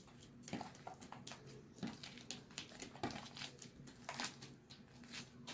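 Sticky fluffy slime being kneaded and squished by hand: faint, irregular wet crackles and small pops.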